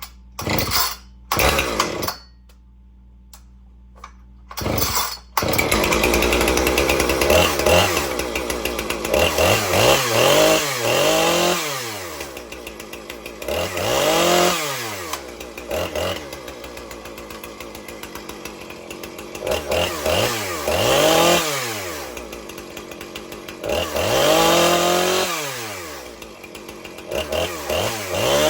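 Husqvarna 455 Rancher two-stroke chainsaw being pull-started: a few short bursts, then it catches about five seconds in. It then runs, revved up and let back down to idle again and again, roughly every three to four seconds.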